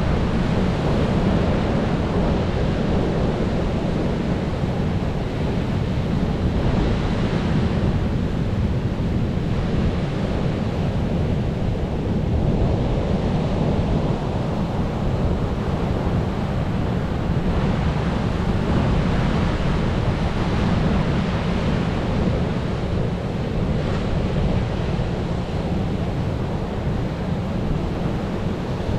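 Sea waves breaking on a shore: a steady rush of surf with a deep low rumble, swelling every few seconds as waves wash in.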